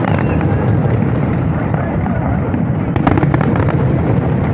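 Fireworks display: a continuous low booming of shell bursts, with sharp crackling at the very start and again about three seconds in.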